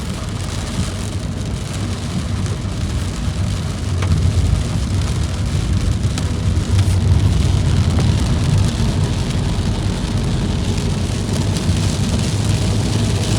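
Rain falling on a car: many drops ticking over a steady low rumble. It grows a little louder about four seconds in.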